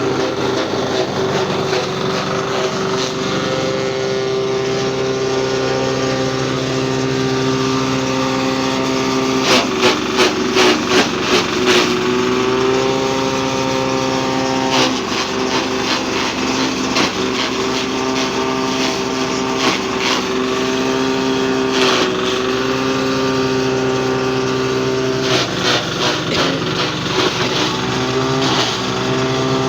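A 10 hp diesel engine running steadily while it drives a chaff cutter. Bursts of rapid clattering strikes come about a third of the way in and a few more times near the end, and the engine note sags slightly as if under load after the first burst.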